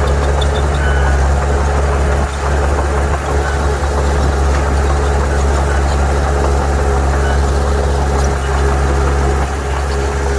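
Heavy diesel engine of earthmoving machinery running steadily at constant speed: a loud, even low hum with a faint steady whine above it.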